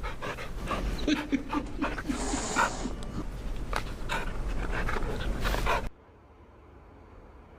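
An animal panting, with short scuffs and knocks, cutting off abruptly about six seconds in to a faint low hum.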